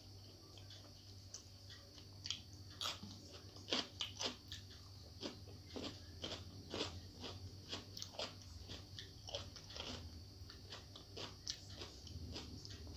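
Crunchy chewing of a piece of raw cucumber, with irregular crisp crunches about two or three a second that start about two seconds in, over a steady low hum.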